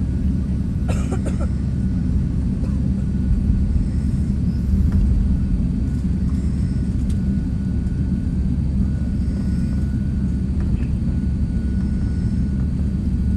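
Jet airliner engines running with a steady low rumble.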